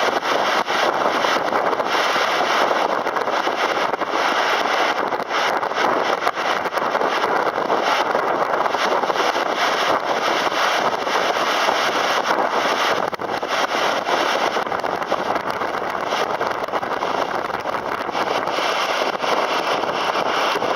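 Detifoss waterfall, a steady, unbroken roar of heavy falling water heard from close by.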